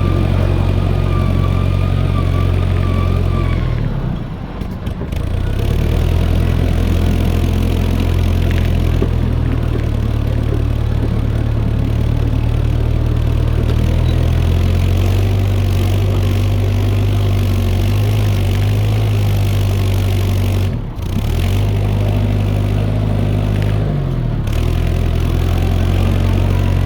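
Fordson E27N tractor's Perkins P6 six-cylinder diesel running steadily under load, with a deep, even engine note. The sound drops out briefly about four seconds in and again around twenty-one seconds.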